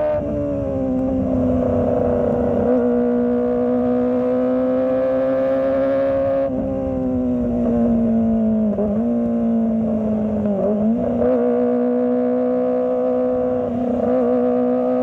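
Kawasaki ZX-25R's 249 cc inline-four engine running at steady, fairly high revs while riding, a loud even drone. The pitch sags briefly twice, about nine and eleven seconds in.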